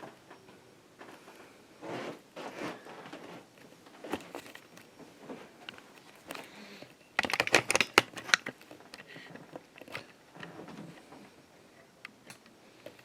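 Handling noise: scattered clicks and rustling, with a quick run of louder sharp clicks and crackles about seven seconds in.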